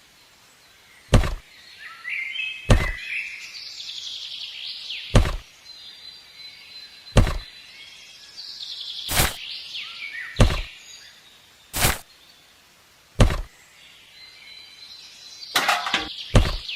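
Sharp, short knocks, about ten of them, coming every second or two, with birds chirping faintly between them.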